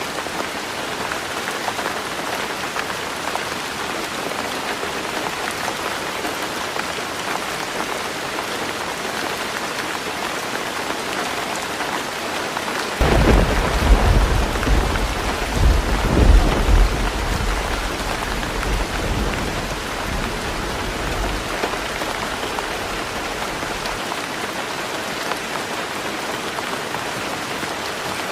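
Heavy rain falling steadily on a tin roof. About halfway through, thunder breaks in suddenly, peaks twice, then rolls off as a fading rumble over several seconds.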